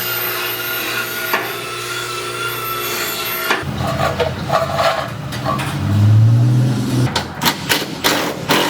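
Workshop tool noise: a steady hum gives way to a brief rising drone from a power tool, followed by a quick run of sharp clicks and knocks from tools on metal.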